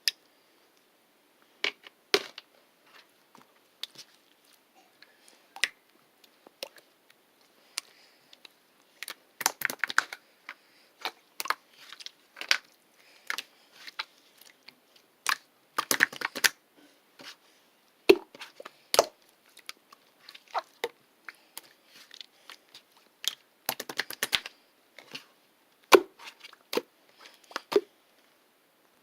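Irregular close-up crackling and crunchy clicks from something being mixed by hand, coming singly and in quick dense flurries a few times.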